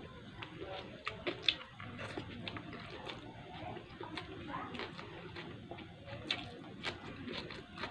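A person chewing food with sharp mouth clicks and smacks scattered through, a cluster of them about a second in. The food is rice and stir-fried vegetables eaten by hand.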